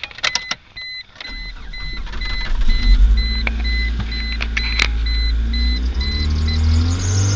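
Cold start of a 1995 Mitsubishi Galant's 2.4-litre four-cylinder engine: a few clicks, then the engine starts about a second in and settles into a fast cold idle. A dashboard warning chime beeps about twice a second until near the end. Just at the end, the accessory belt begins a high squeal.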